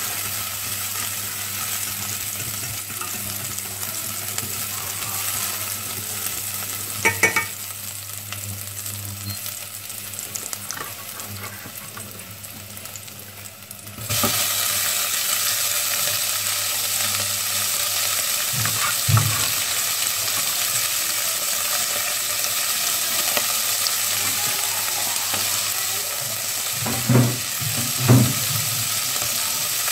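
Chopped shallots sizzling in hot oil in a stainless steel pot while being stirred with chopsticks. About halfway through, chopped chicken giblets are tipped in and the sizzle suddenly gets louder and fuller. There are a few short knocks, one about a quarter of the way in and two near the end.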